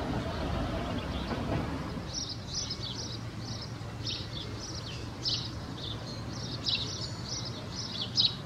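Small birds chirping in quick, short, high notes, several a second, over a steady low background hum. A broader low rumble fades out about two seconds in, just before the chirping starts.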